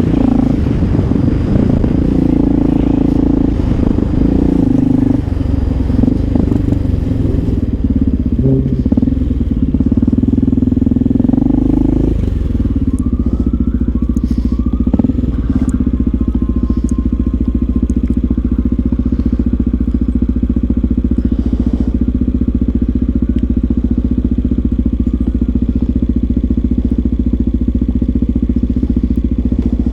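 Honda XR650L single-cylinder motorcycle engine running as the bike is ridden, its pitch shifting with the throttle, then settling into a steady unchanging note about twelve seconds in.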